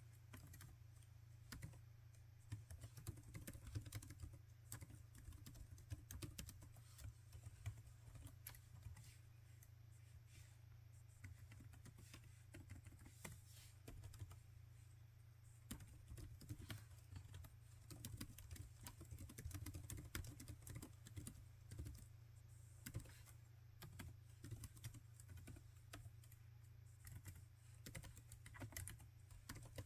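Typing on a laptop keyboard: a quick, irregular run of quiet key clicks that goes on throughout, over a steady low hum.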